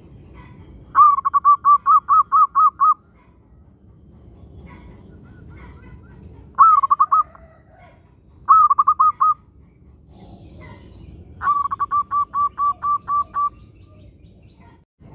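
Zebra dove (perkutut) cooing: four bouts of quick, rhythmic coos, the first and last about two seconds long and two shorter ones in between.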